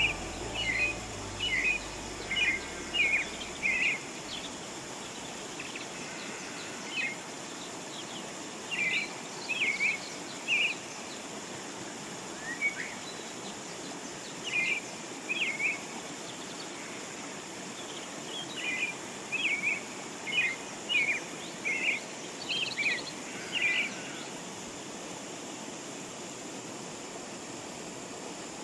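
Small birds chirping in short bursts of quick, high notes over a steady outdoor hiss; the chirping stops about 24 seconds in, leaving only the hiss.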